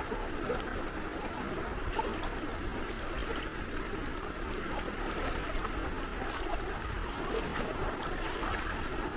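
Gentle sea waves lapping and trickling at the shore, a steady wash of water with small splashes.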